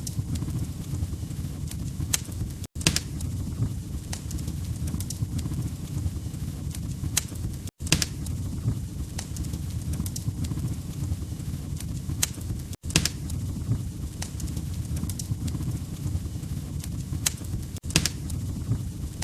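Log fire crackling: a steady low rumble with sharp pops and snaps scattered irregularly through it. The sound cuts out for an instant four times, about five seconds apart.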